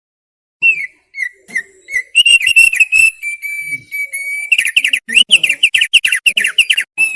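Opior paruh tebal (thick-billed heleia) singing: a burst of loud whistled notes, then a held, warbling stretch, then a fast run of sharp notes near the end.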